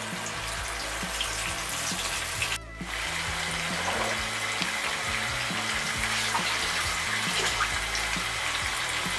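Marinated chicken pieces sizzling as they shallow-fry in hot soybean oil in a pan, a steady hiss that breaks off briefly about two and a half seconds in. Background music plays underneath.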